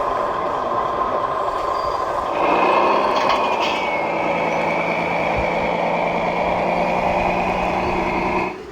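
A radio-controlled model construction machine running: a steady mechanical hum that about two and a half seconds in turns louder, with a low hum and a high whine over it, then stops abruptly near the end.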